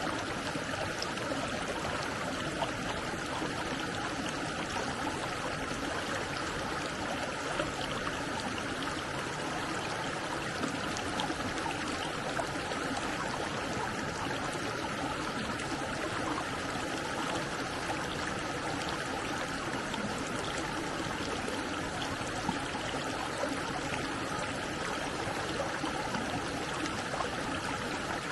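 Stream water flowing steadily over rocks, a continuous even rush.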